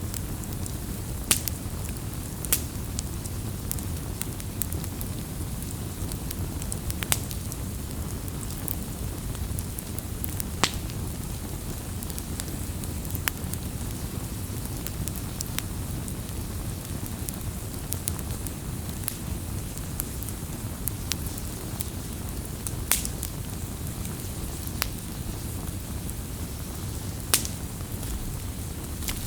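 Wood campfire burning with a steady low rumble of flame, broken by scattered sharp crackles and pops, a handful of them louder.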